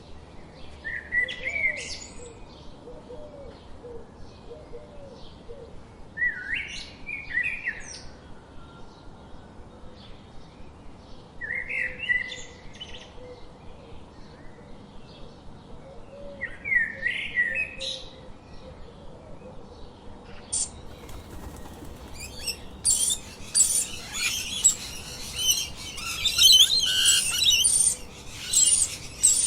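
A songbird sings a short phrase four times, about five seconds apart, then dense, rapid high-pitched chirping fills the last third.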